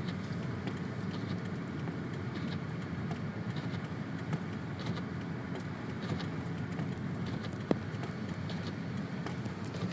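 Steady engine and tyre noise inside a moving car's cabin on a snow-covered road, with faint scattered ticks and one sharp click about three-quarters of the way through.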